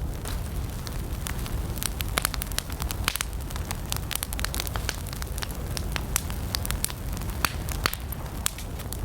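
Campfire of burning wood crackling, with frequent sharp, irregular pops and snaps over a steady low rumble of the flames.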